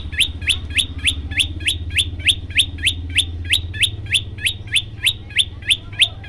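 Prenjak lumut songbird calling in a fast, even series of short rising notes, about three to four a second, with a low rumble underneath.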